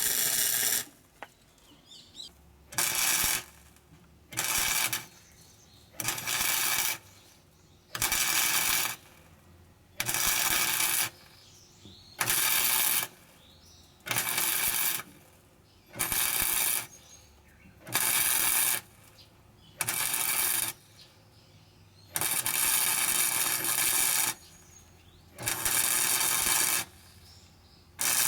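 Welder tack- or stitch-welding sheet metal on a car's side sill, in short bursts of about a second each, roughly every two seconds, with quiet gaps between and one longer run near the end.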